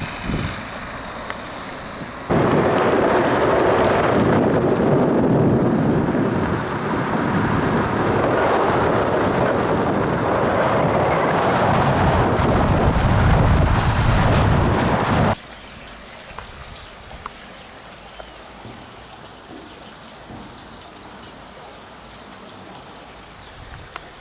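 Water rushing loudly, a dense steady noise with a low rumble, starting suddenly about two seconds in and cutting off abruptly about fifteen seconds in, after which a much quieter steady flow of water is heard.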